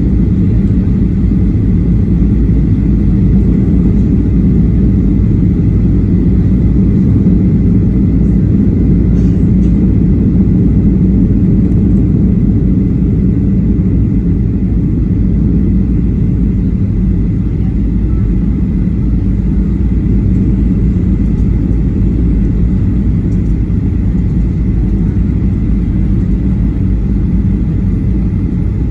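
Steady cabin rumble inside a Boeing 737-800 in flight, from its CFM56-7B engines and the airflow over the fuselage, with a thin steady whine above the deep rumble.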